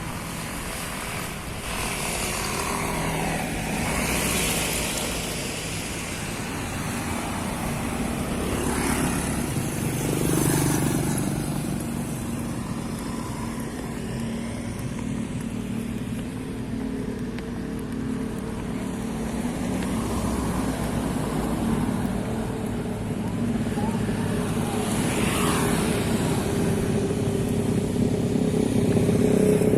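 Road traffic with motorcycles and cars passing, the noise swelling and fading as each one goes by.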